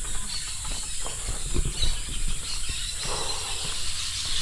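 Outdoor ambience in a bird aviary: a steady high hiss with a few faint bird chirps over it, and low rumbling thuds from walking and handling.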